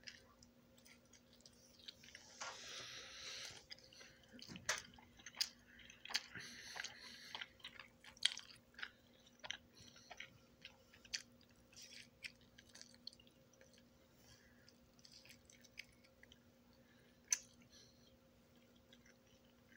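A person chewing a mouthful of cheese pizza, with many small sharp mouth clicks, busiest in the first half and thinning out later.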